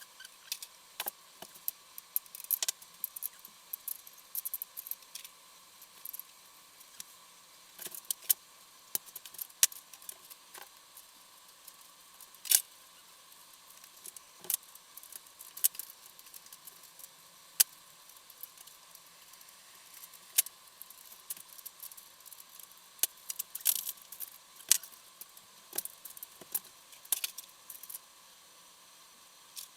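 Scattered sharp metallic clinks and clicks of hand tools and fasteners as a motorcycle engine is taken apart, irregular and without rhythm, over a faint steady hum.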